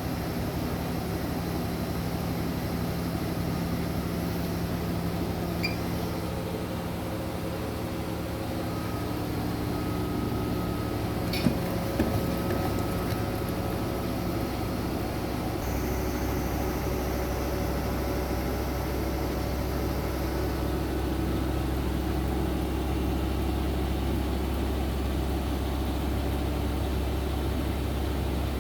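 Front-loading washing machine running with a steady motor hum and faint whine. There are two short clicks about 11 to 12 seconds in, and the low hum gets stronger about 16 seconds in.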